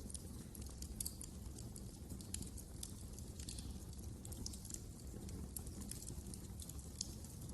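Wood fire crackling: a steady stream of small, sharp snaps and pops, several a second, over a low rumble from the burning fire.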